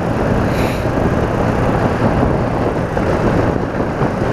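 Steady riding noise from a BMW R80RT motorcycle under way: wind rush on the helmet- or bike-mounted microphone over the air-cooled flat-twin engine running at a steady cruise.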